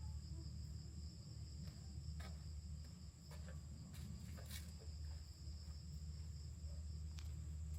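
A chorus of insects calling in the evening, a steady high drone at two even pitches, over a low rumble, with a few faint clicks.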